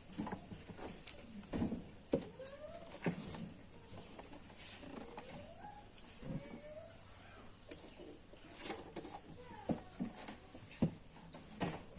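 Several short animal calls that rise in pitch, spaced a few seconds apart, with scattered clicks and knocks over a steady high-pitched drone.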